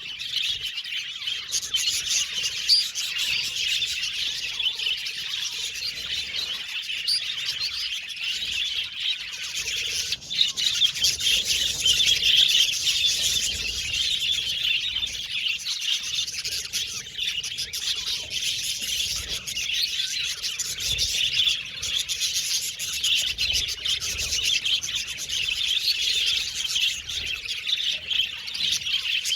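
A flock of budgerigars chirping and chattering continuously: many overlapping high chirps, warbles and squawks without pause.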